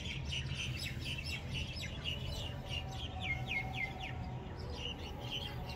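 Small birds chirping throughout, with a quick run of three falling notes a little after three seconds in, over a low steady hum.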